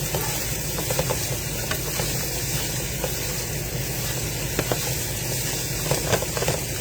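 Meat sizzling as it browns in a frying pan: a steady frying hiss, with scattered clicks and scrapes of a utensil stirring it.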